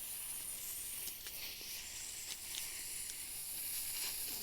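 A steady hiss, with a few faint clicks through it.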